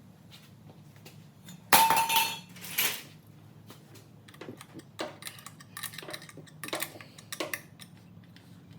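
Metal parts clanking: a loud clank with a brief ring about two seconds in, a second clatter just after, then a run of lighter clinks. The parts are exhaust pipe pieces being handled while they are fitted.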